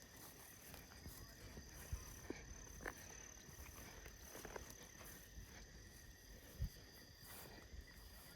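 Faint, steady high-pitched drone of insects in the background, with a few soft knocks.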